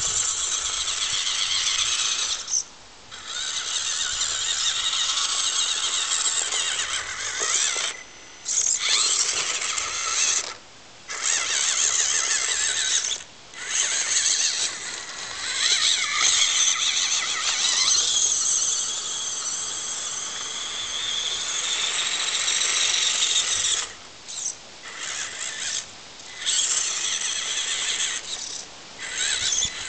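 Electric motor and gearbox of a 1/18 scale RC crawler truck whining as it is driven, with short pauses several times when the throttle is let off.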